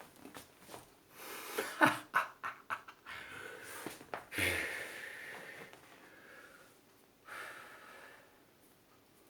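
A man making forceful breathy sounds as a comic tiger imitation. First come several short sharp huffs, then a long hissing exhale with a grunt in the middle, and a shorter hiss near the end.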